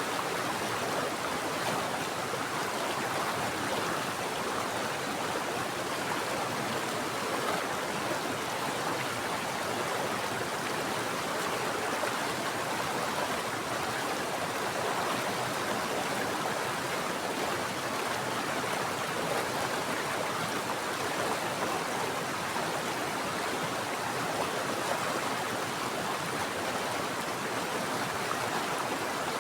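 A mountain stream flowing steadily over rocks, an even rushing of water.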